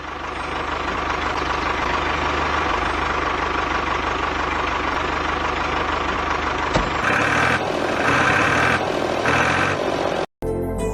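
Motor of a DIY model mini tractor running steadily.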